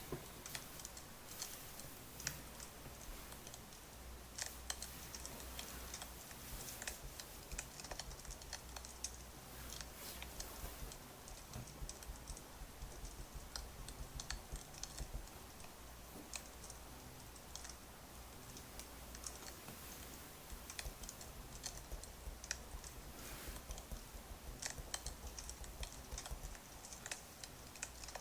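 Wood fire crackling: irregular small pops and snaps over a low steady hum.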